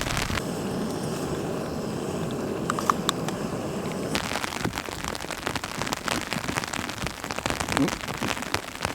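Rain falling, a dense crackle of drops pattering on a nearby surface. For the first four seconds or so a duller, steady rush covers the patter, which then turns sharp and close.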